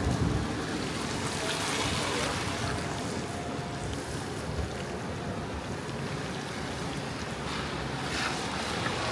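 Steady road and wind noise of a car being driven, a low rumble with a faint thin whine that comes and goes.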